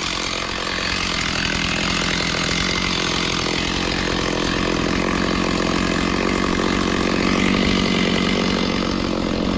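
Small gas-engine saw running steadily at high speed while cutting through brush.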